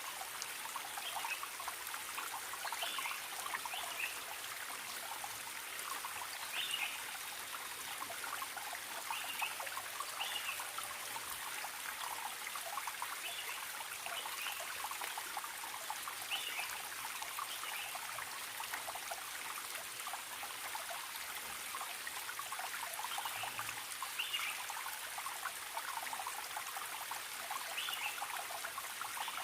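Forest stream trickling and babbling steadily, with a wild bird giving short high chirps every second or two.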